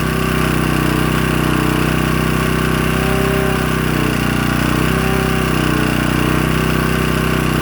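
Predator portable generator's small engine running steadily, a slight waver about once a second.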